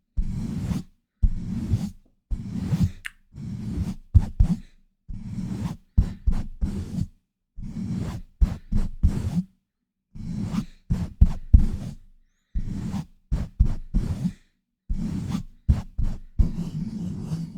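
Hands pumping and rubbing fast against a bare microphone: muffled swishing bursts about once a second with sharp knocks in them, close and loud, running without gaps near the end.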